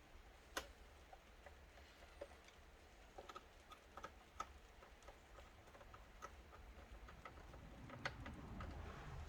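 Faint, irregular small clicks and ticks of a screwdriver turning small screws into a laptop's case, with light handling rustle near the end.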